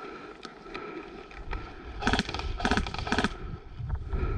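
Airsoft electric rifle firing three short full-auto bursts of rapid clicks, about half a second apart, a little past halfway through.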